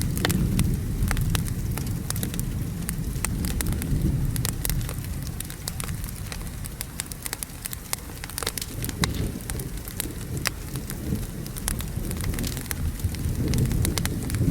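Wood fire crackling with frequent sharp pops over steady rain and a low rolling rumble of thunder. The rumble eases off about halfway through and builds again near the end.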